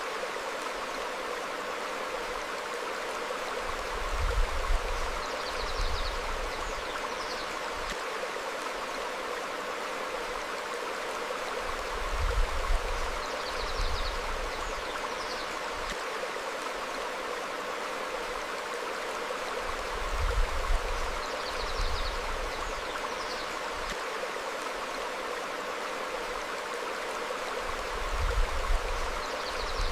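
Small stream flowing over rocks, a steady rushing burble. Short, faint bird chirps and a brief low rumble come back together about every eight seconds.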